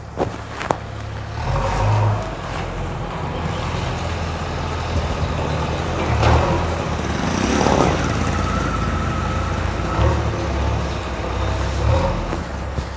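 A heavy vehicle's engine running steadily at a low rumble, with a couple of sharp clicks about half a second in and a louder surge of noise around the middle.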